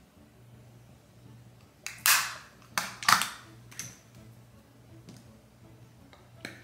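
A few short, sharp handling sounds, clicks and swishes, as makeup items are picked up and used. They cluster between about two and four seconds in, with one more near the end, over a low steady hum.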